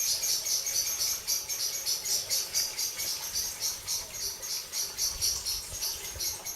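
Small birds mobbing a cat, giving a steady run of short, high alarm chirps, about four or five a second.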